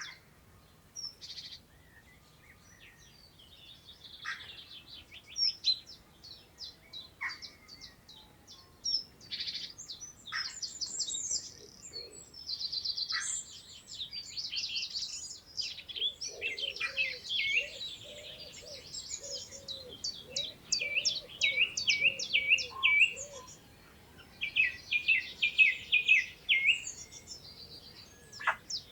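Several wild birds singing and calling at once, with quick overlapping chirps and trills throughout. A lower, repeated call joins for several seconds about halfway through.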